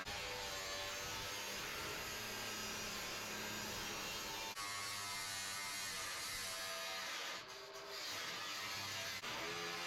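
Electric power tool running steadily while cutting sheet metal, a humming motor with a rough metallic hiss, broken by short cuts between clips.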